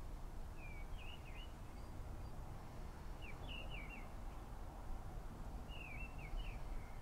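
A bird singing three short chirping phrases, about two and a half seconds apart, over a steady low background rumble.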